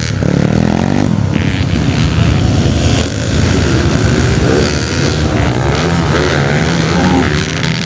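Motocross bike engines revving hard, their pitch rising and falling continuously.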